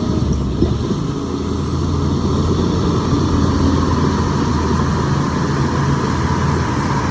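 Heavy machine's diesel engine running steadily, growing slightly louder after about two seconds.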